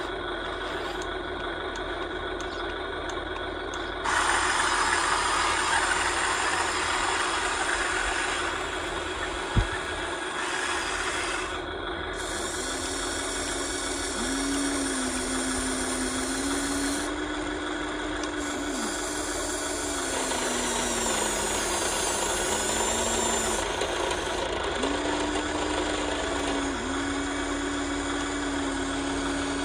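Radio-controlled model excavator working: its small motors and gears make a steady mechanical hum. The hum grows louder for several seconds from about four seconds in, with one sharp click near ten seconds. Later a whine comes in that rises and falls in pitch as it works.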